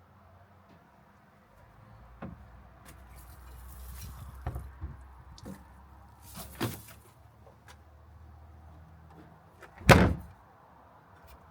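A few light knocks and clunks, then one loud bang just before the end.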